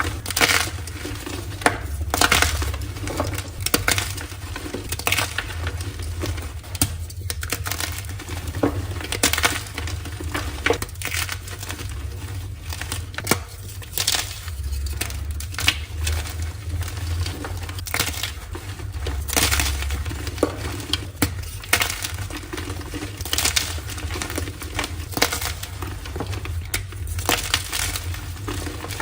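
Blocks of dyed gym chalk being crushed, crumbling in a dense, irregular run of sharp crunches.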